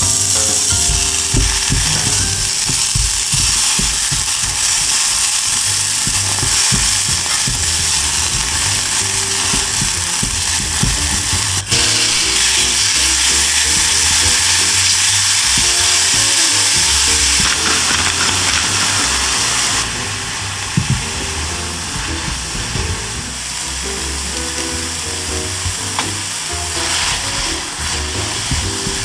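Sliced onion and enoki mushrooms sizzling in olive oil in a small pan as they are stirred with chopsticks, over background music. The sizzle is loud at first and eases about twenty seconds in.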